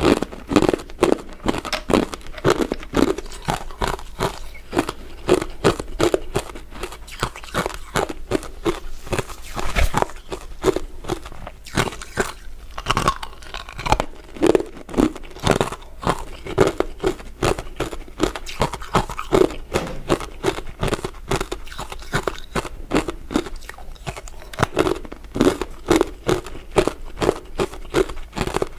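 Close-up crunching and chewing of crisp crystal ice dessert pieces. The bites and chews repeat steadily, several a second, as the pieces are crushed between the teeth.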